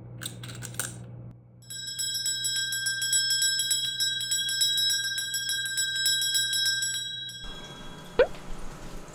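A small bell rung rapidly and continuously, a bright ringing with quick repeated strikes for about six seconds that stops abruptly. A single sharp click follows about a second later.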